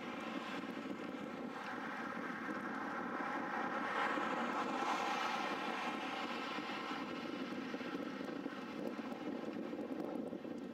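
A steady mechanical drone, like a running vehicle, with wind-like noise behind it. It swells louder about four seconds in, then eases back.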